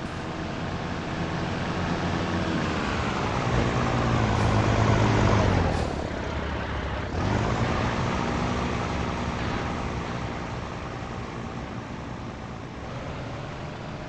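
Heavy diesel truck engine, most likely the channel's Scania T113, accelerating with revs climbing. About six seconds in the engine note drops away briefly for a gear change, then picks up again and slowly eases off.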